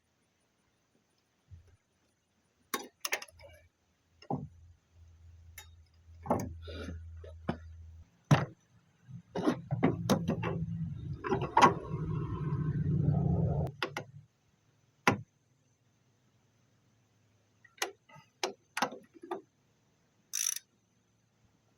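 Scattered clicks and knocks of tools and parts being handled during suspension work. Midway there is a low hum, then a louder low mechanical noise lasting about five seconds before it stops.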